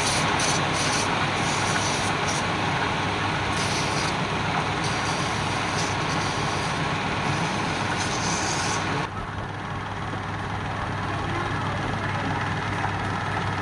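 Wood lathe running steadily with a constant motor hum. A higher hissing layer, the sound of a tool or abrasive on the spinning wood, flickers and then drops away about nine seconds in.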